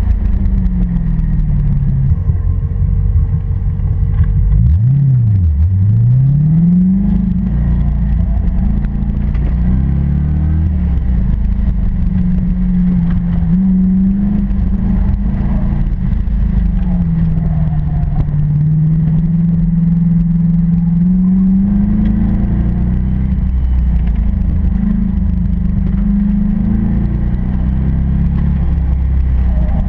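1992 Chevrolet Corvette's V8 heard from inside the cabin, driven hard on an autocross course: the engine note rises and falls over and over as the driver accelerates and lifts, with a sharp drop and quick climb back about five seconds in.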